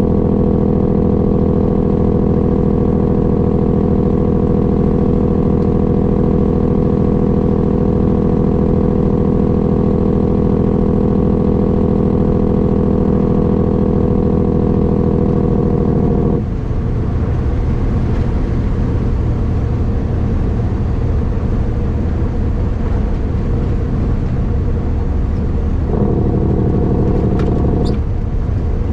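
A vehicle engine drones steadily at constant cruising speed. About sixteen seconds in, the sound changes abruptly to a lower drone with more road noise, and the earlier tone returns briefly near the end.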